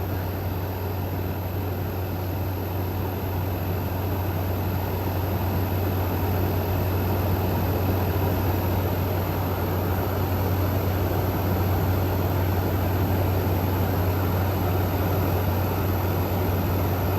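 Frigidaire Gallery GHWQ103WC1 dual inverter window air conditioner running, with its compressor and condenser fan giving a steady low hum under even fan and airflow noise. The inverter is throttling the compressor and condenser fan back down toward low speed.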